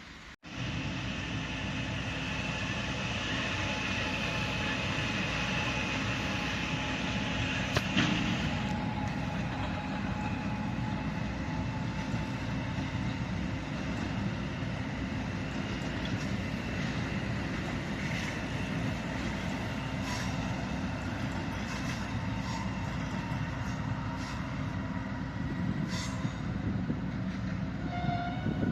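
A train running past on the track: a continuous rumble of wheels on rail with a steady high whine that fades about eight seconds in, where a sharp click stands out.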